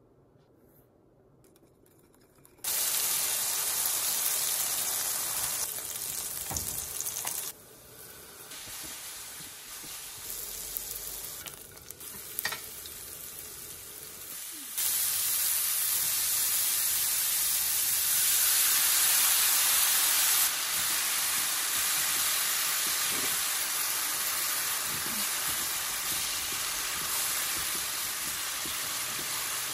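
Vegetables sizzling in hot oil in a frying pan as sliced shallots, garlic and ginger, then broccoli and onion, are stir-fried. The sizzle starts suddenly about two and a half seconds in, after near silence. It then steps softer and louder a few times, with a single sharp click near the middle.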